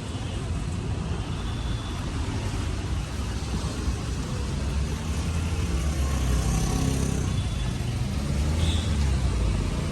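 Motorcycle running at road speed: a steady low engine and road rumble under a constant rush of wind and road noise.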